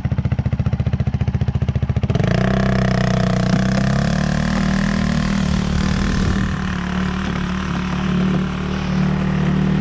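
Polaris RZR side-by-side's engine running with a rapid, even pulsing, then about two seconds in picking up speed and holding a steady higher pitch.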